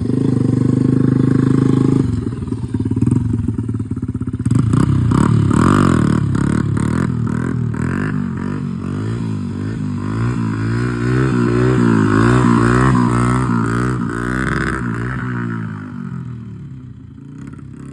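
A 1993 Honda XR80's small single-cylinder four-stroke engine running, its pitch repeatedly rising and falling as it is revved and ridden. It fades away near the end.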